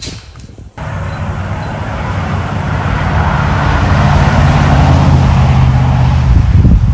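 A vehicle engine running steadily with wind and road noise, starting abruptly about a second in and growing louder toward the end.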